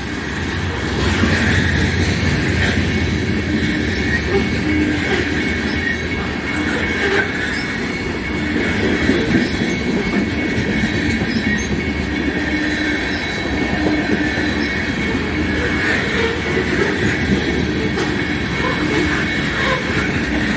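Freight cars of a CN mixed-freight train rolling past at close range: a continuous steady rumble of steel wheels on rail, with a high, steady flange squeal running through it.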